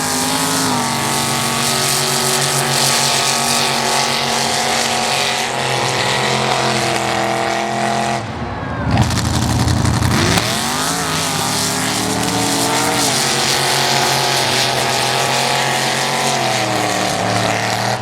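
Mud-drag race truck's engine running hard at high revs with a steady pitch. About eight seconds in, the sound drops away briefly, then the revs climb and hold high again.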